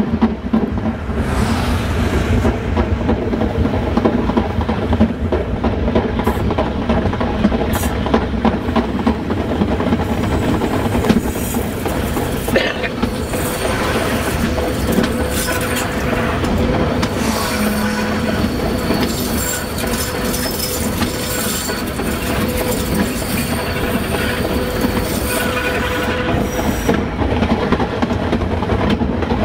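Metre-gauge train running along the track, the steady rumble and clatter of its wheels on the rails, with thin high wheel squeals through the middle and later part.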